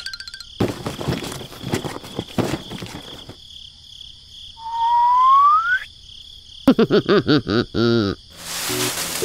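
Cartoon-style sound effects laid over a steady chirping insect ambience. First comes a run of quick knocks, then one rising whistle, then a series of wobbly bouncing tones, and a whoosh near the end.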